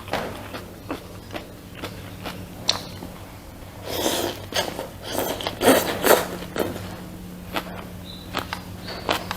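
Close-miked eating sounds: chewing with scattered sharp wet mouth clicks, growing denser and louder for a couple of seconds about four seconds in. A steady low hum runs underneath.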